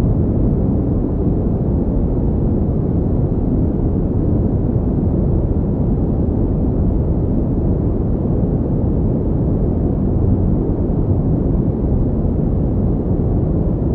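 Continuous pink noise: an even, unchanging noise with most of its weight in the low end and little treble.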